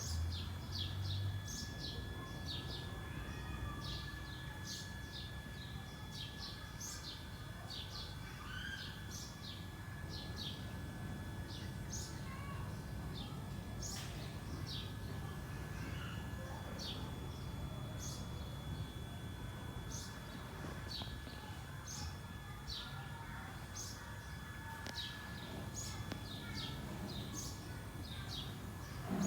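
Small birds chirping, with repeated short high chirps throughout, over a low outdoor rumble and a faint steady high tone.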